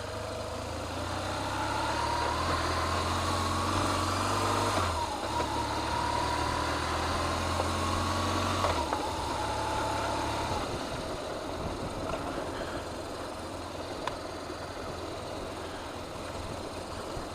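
Motorcycle engine pulling at low speed. Its pitch rises for about five seconds, drops suddenly at a gear change, then rises again. Near nine seconds it eases off to a lower note and fades to a steady background rumble.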